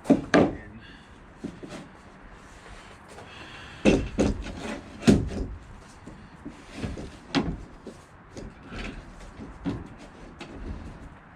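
Several sharp knocks and clunks with rubbing in between, from clamps being handled and set against the transom edge to pull it in tight: about four loud knocks, one right at the start, two close together around four to five seconds, and one near seven and a half seconds.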